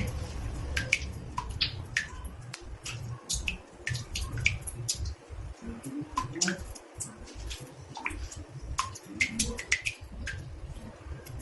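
Water drops falling into a bathtub: irregular plinking drips, about two or three a second, over a low rumble.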